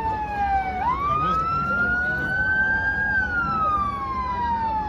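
Emergency siren in a slow wail: the pitch falls, climbs from about a second in until about three seconds in, then falls again.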